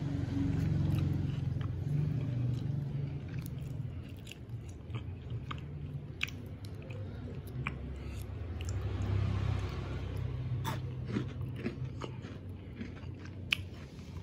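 A person chewing a crunchy Biskuat chocolate biscuit: irregular small crunches and clicks over the low sound of the chewing, with one sharper crunch near the end.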